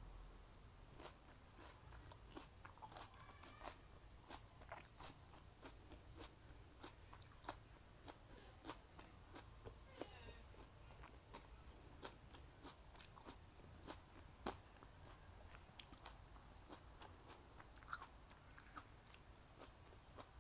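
Faint chewing of a mouthful of mala stir-fried food: irregular soft crunches and wet mouth clicks.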